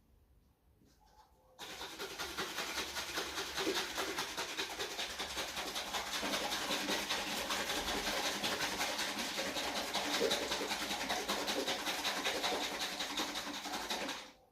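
Kitchen tap running steadily, water going into the sauce bottle to rinse out the last of the sauce. It comes on suddenly about a second and a half in and stops just as suddenly near the end.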